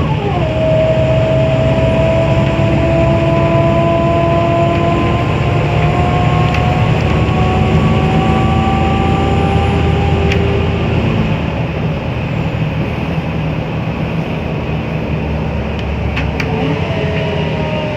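Scania L94UA city bus's engine and drivetrain running under load. After a drop in pitch at the very start, a whine climbs slowly over a steady rumble. It eases off about eleven seconds in, and near the end a new whine starts to rise.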